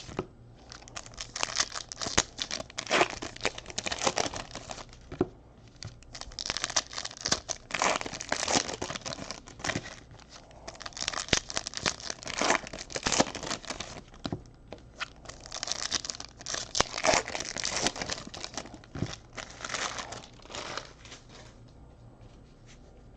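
Trading-card pack wrappers crinkling and tearing as packs are ripped open, in repeated bursts that thin out near the end.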